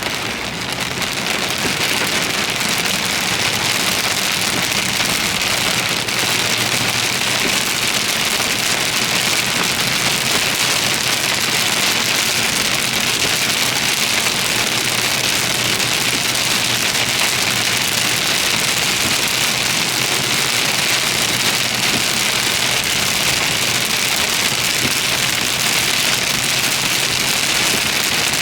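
Heavy rain pouring down steadily, growing heavier over the first second or two and then holding.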